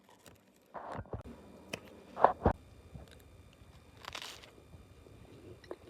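Scattered knocks and a brief rustle from handling things by hand, the loudest knock about two and a half seconds in.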